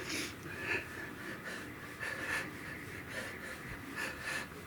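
A man breathing hard from exertion on an exercise bike: irregular heavy puffs of breath every second or so, with a faint steady whine underneath.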